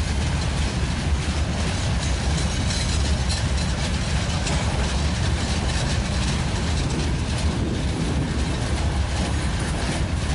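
Broad-gauge freight train's open-top wagons rolling steadily past, their steel wheels running on the rails.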